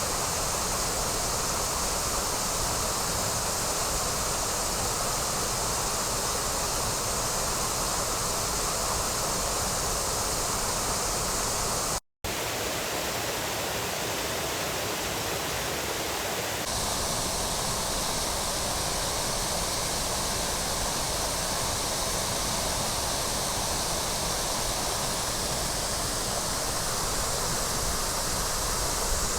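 Steady rush of a waterfall. The sound drops out for an instant about twelve seconds in, and its tone shifts slightly a few seconds later.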